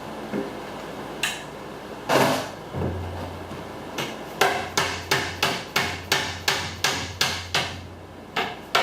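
Hammer tapping on aluminium channel to bend it into a curved rain gutter: a couple of separate blows, then a quick run of taps at about three a second, and two more near the end.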